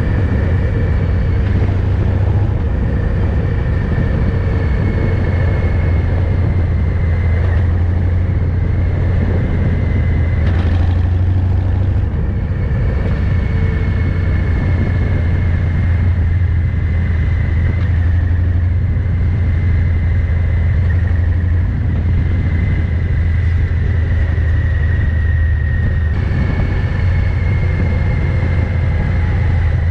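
Harley-Davidson Fat Boy 114's Milwaukee-Eight V-twin running steadily under way through Vance & Hines exhaust, a constant low rumble. The recording is overloaded and mushy, the microphone gain set far too high.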